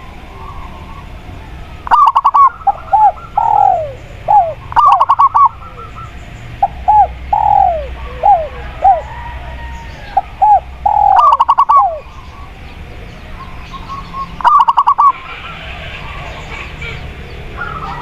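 Zebra dove and spotted dove cooing over a steady background hiss. The calls come in about four loud phrases, each opening with a fast rattling trill and often followed by a few short coos that fall in pitch.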